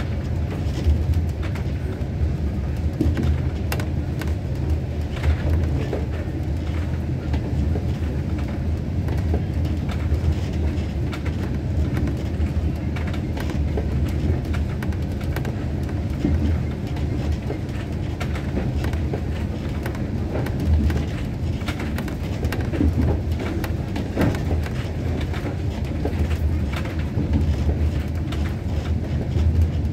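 Passenger train running on the track, heard from on board: a steady low rumble with irregular clacks and knocks from the wheels and carriage.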